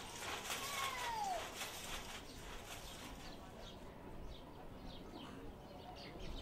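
Birds calling: one falling whistled call about a second in, then short high chirps. A quick run of soft clicks sounds over the first two seconds.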